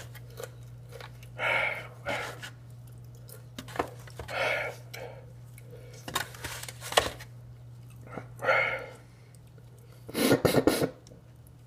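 A man's heavy breathing and exhales with mouth noises while eating, in about six short breathy bursts, the loudest pair near the end, over a steady low hum.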